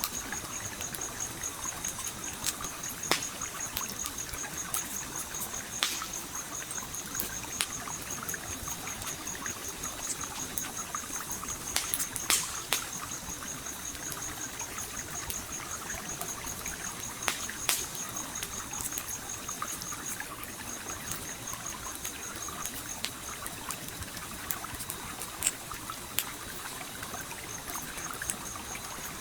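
Campfire crackling with scattered sharp pops over the steady trickle of a gently flowing stream. A high, rapidly pulsing tone runs alongside, dropping out twice in the second half.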